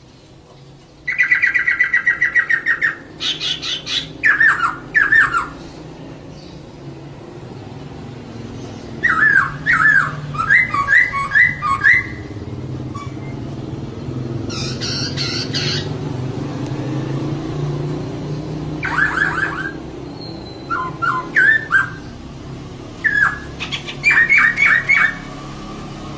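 Female poksay (laughingthrush) calling in repeated bursts of quick, rising chirps, the calls used to bait a male poksay into singing. The bursts come in groups of several notes, over a steady low hum.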